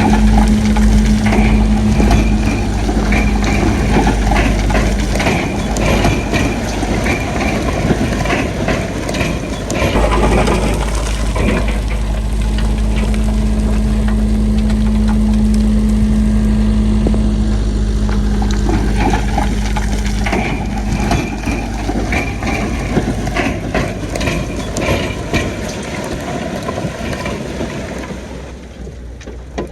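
Heavy earthmoving machinery at work: a large diesel engine running steadily, with repeated clanking and grinding throughout. It gets quieter near the end.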